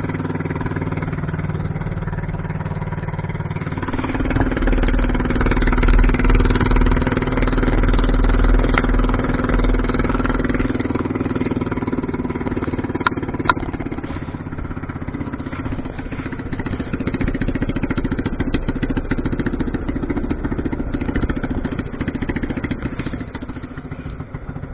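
Small fishing boat's engine running steadily. It speeds up about four seconds in and eases back down around fourteen seconds, with a couple of sharp knocks in between.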